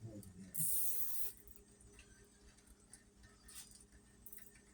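A plastic cable tie zipped tight through its ratchet in one short rasping pull about half a second in, followed by faint handling clicks.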